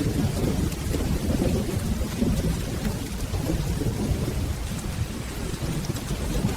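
Steady rain with a low, rolling thunder rumble that goes on without a break.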